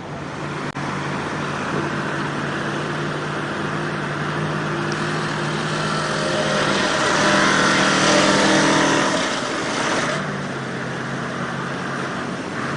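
Truck engine running steadily, then revving harder and louder for about three seconds past the middle before dropping back to its earlier note.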